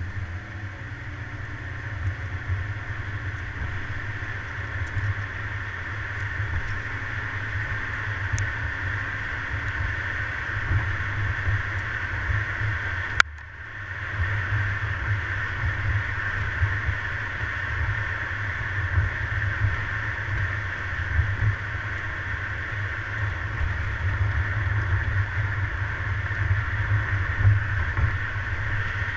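A car being driven, heard through a GoPro on a suction-cup mount on the car: steady engine and road noise with a low, unsteady rumble. A sharp click about 13 seconds in, followed by a brief drop in level.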